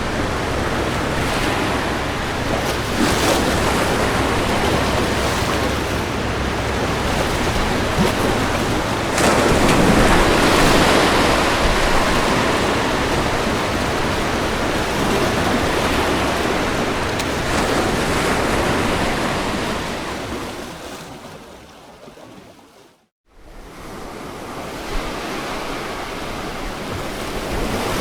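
Ocean waves breaking and washing onto a beach in a steady rushing surf, with one bigger surge about ten seconds in. A little past twenty seconds in the surf fades away to a moment of silence, then comes straight back.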